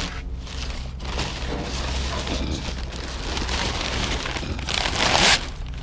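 Junk being shifted and dragged in a pile of dumped furniture and debris: a continuous noisy scraping and rustling that builds to a loud scrape about five seconds in, over a steady low hum.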